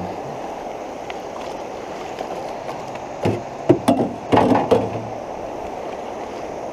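Fast-flowing creek water rushing steadily. From about three to five seconds in comes a quick cluster of knocks and scrapes: the aluminum canoe's hull bumping and scraping over rocks as it is dragged through the shallows.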